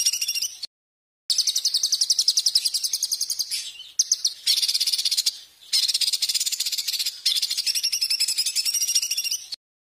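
Songbird trilling: long phrases of fast, evenly repeated high notes, around a dozen a second. The phrases break off abruptly into dead silence twice, about a second in and near the end, where the recording is cut.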